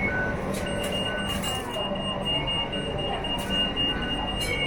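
Light rail train running, heard from inside the car: a steady rumble and hum, with a thin high-pitched whine that sets in just under a second in and holds, typical of wheels squealing on the rails.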